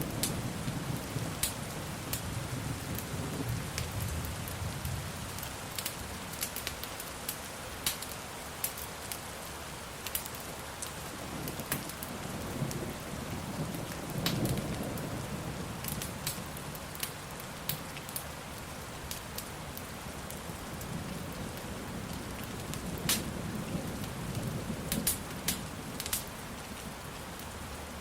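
Steady rain with low rolling thunder, rumbling at the start and swelling again about halfway through and near the end. Scattered sharp crackles run through it.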